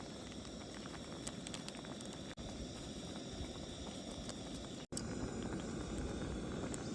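Firewood burning in a campfire: a steady hiss with scattered small crackles.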